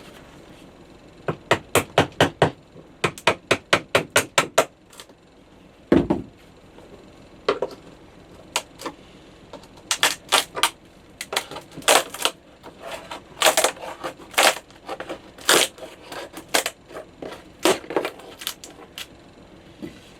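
A hand tool working at a veneered wooden panel that is being stripped off: runs of quick sharp taps at about four a second, one heavier thump about six seconds in, then a series of louder scraping strokes.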